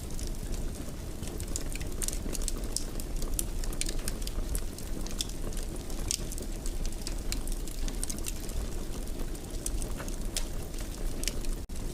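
Wood fire crackling in a fireplace: irregular sharp pops and crackles over a steady low rumble. There is a split-second dropout in the sound near the end.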